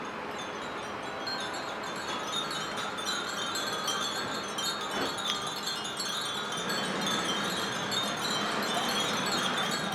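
Many Japanese furin wind chimes hung together, tinkling without pause in the breeze: a dense, overlapping jingle of high ringing tones that grows a little louder in the second half.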